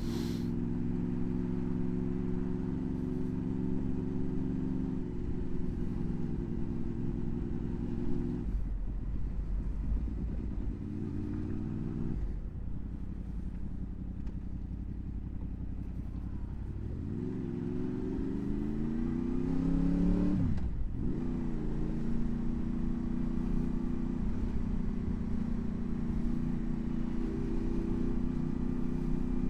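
Honda VFR800's V4 engine running under way, the rider's motorcycle. It runs steadily, drops in pitch about eight seconds in, then rises steadily in pitch over a few seconds past the middle before a sudden drop, and runs steadily again to the end.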